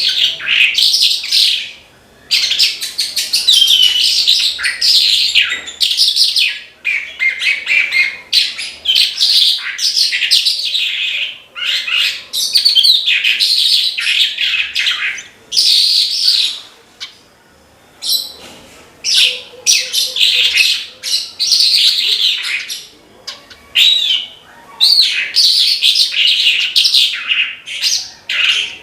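Javan bush lark (branjangan) singing a long, fast, varied song of chirps and trills, in loud phrases broken by a few short pauses.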